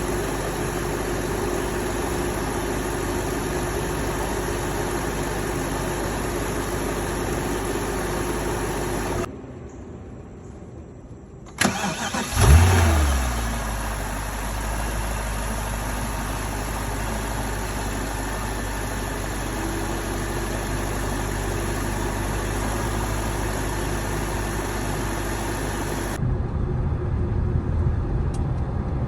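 BMW 650i V8 running steadily; after a short quieter gap the engine is started, firing with a loud rev flare about twelve seconds in before settling into a steady idle. Near the end a louder, rougher low rumble takes over.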